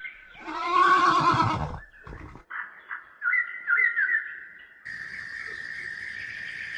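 An animal call with a wavering pitch, about a second and a half long, then a few short high chirps. From about five seconds in, a steady high insect chirring starts.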